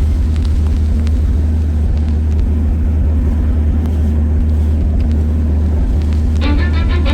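Excavator's diesel engine running steadily, a low rumble with faint knocks over it. Music comes in near the end.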